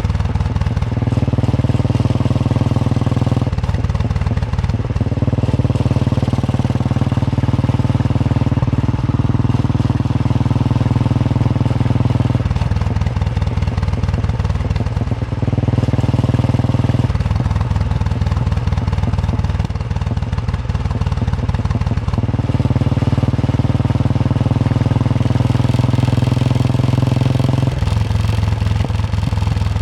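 Royal Enfield Bullet 350's single-cylinder engine thumping under way. The note changes several times between a smooth steady run and slower, separate thumps as the throttle is opened and closed.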